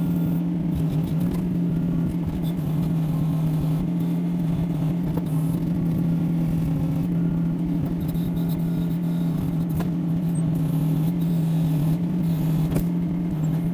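Yanmar diesel engine of a Kymron XH20D mini excavator running at a steady speed while the machine works, with a few faint ticks or knocks over it.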